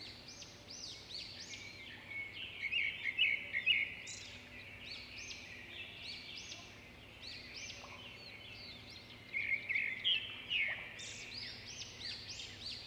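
Birds chirping and calling in a dense chorus of short, quickly rising-and-falling notes, with louder spells of chatter about two to four seconds in and again around ten seconds.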